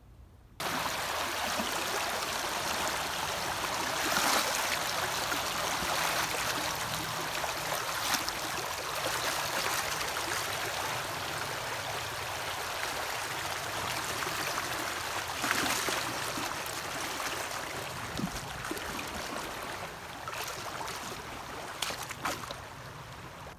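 Steady rushing and gurgling of a flowing stream, cutting in suddenly about half a second in.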